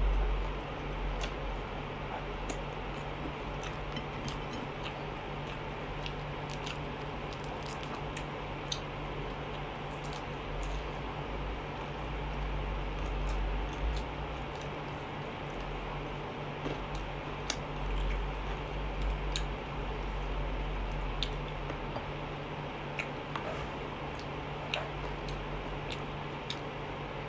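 Close-up eating of crispy fried chicken: wet chewing and tearing of the meat and skin by hand, with frequent small irregular clicks from the crisp skin. A steady low hum runs underneath.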